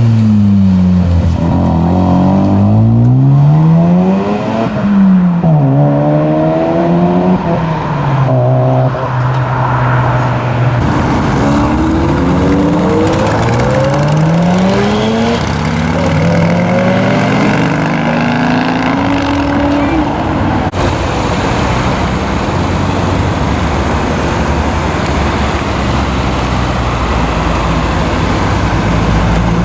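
Modified cars' engines and loud aftermarket exhausts revving hard and accelerating, pitch climbing through each gear and dropping at the shifts, several runs in turn. From about two-thirds of the way in, a steadier low exhaust rumble takes over.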